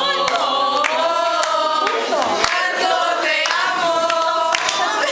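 A group of young women singing together unaccompanied, with held, wavering notes and sharp hand claps now and then.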